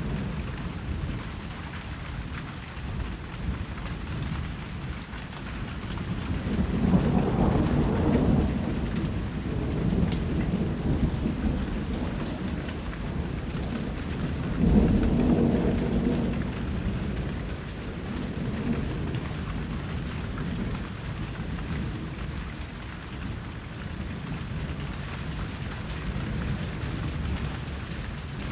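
Steady rain falling, with two low rolls of thunder swelling up and fading, one about 7 seconds in and a stronger one about 15 seconds in.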